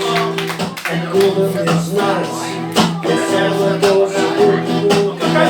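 Strummed guitar playing an instrumental passage of a live song, with steady held chords and regular strokes.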